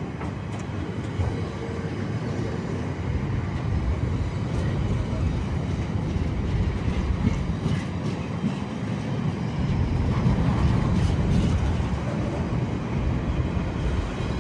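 A train running past on the track: a steady low rumble of wheels and running gear with scattered clicks, building a little louder about ten seconds in.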